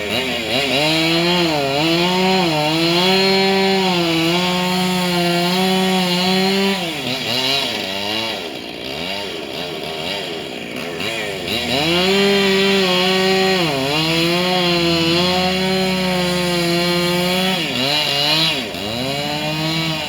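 Husqvarna 268 two-stroke chainsaw running at full throttle through wood, its pitch sagging and recovering as it loads in the cut. It throttles back about seven seconds in, revs up and cuts again from about twelve seconds, and drops back near the end.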